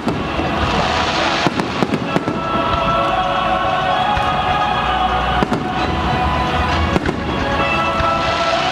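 Aerial fireworks going off in a rapid string of sharp bangs and crackles, densest in the first few seconds. Music plays steadily underneath.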